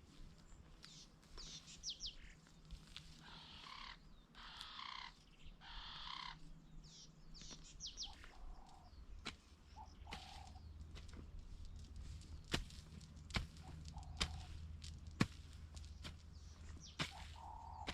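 Birds chirping and calling in short bursts. In the second half, a few sharp knocks of a jembe hand hoe striking the soil during weeding.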